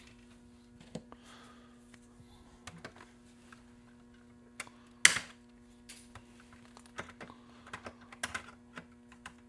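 Light, scattered clicks and taps of small plastic parts and tools being handled, with one sharper click about five seconds in, over a steady electrical hum.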